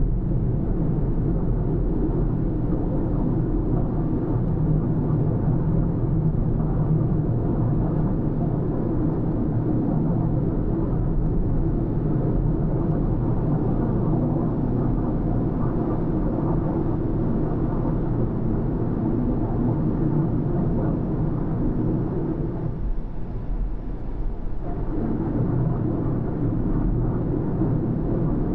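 Car driving along a road: a steady low rumble of engine and tyre noise, easing for a couple of seconds late on before picking up again.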